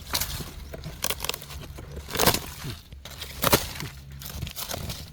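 Dry dead wood and bark cracking and snapping as it is broken open by hand: a series of sharp cracks, the loudest about two and three and a half seconds in.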